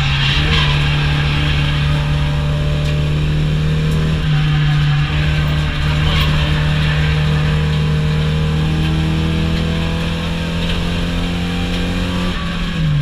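Car engine under load heard from inside the cabin on a race track, its pitch holding steady and slowly rising, with a brief change about four seconds in and a drop right at the end.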